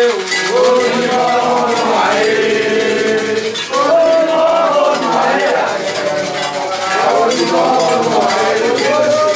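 Voices singing a Candomblé chant in long held notes over clinking metal percussion.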